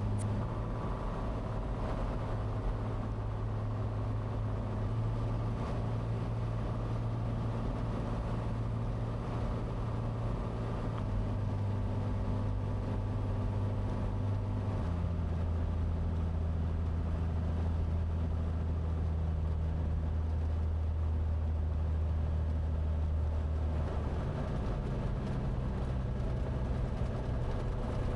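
Cessna 182T's six-cylinder engine and propeller droning steadily, heard from the cabin. The pitch steps down a couple of times partway through as power is brought back.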